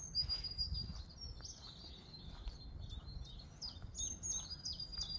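A songbird singing a quick string of high chirps and short falling notes, over a low rumble.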